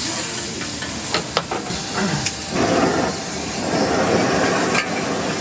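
Food sizzling and hissing on a hot griddle, the hiss swelling from about halfway through, with a few sharp clicks of a metal utensil.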